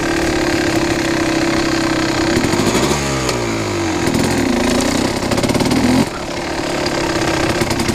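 Kawasaki KX250 two-stroke single-cylinder dirt bike engine running at cruising throttle. The revs rise and fall about three seconds in, then drop suddenly around six seconds in as the throttle closes and pick back up.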